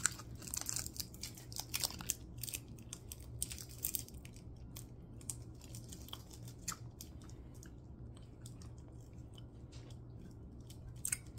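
Chewing a sour cola candy: wet, crunchy clicks, busiest in the first few seconds and then sparser, over a low steady hum.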